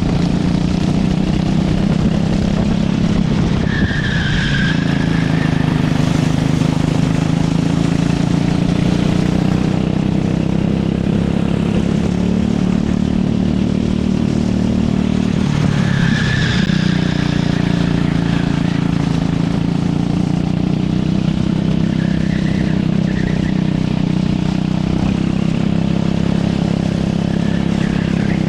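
Racing kart engine running hard and steady, its pitch dropping and climbing again twice as the kart slows for corners and accelerates out. Brief tyre squeals come about four seconds in and again around sixteen seconds, with fainter ones later.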